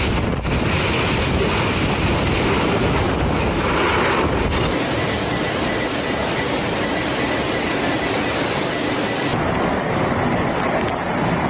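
Loud, steady rushing noise of a storm, its character changing abruptly about five and nine seconds in as the footage cuts between clips.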